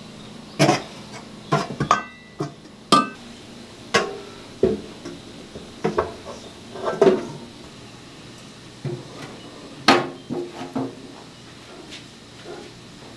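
A series of irregular sharp knocks and clanks, like hard objects set down and struck during stall work, a couple of them around two to three seconds in ringing briefly like metal.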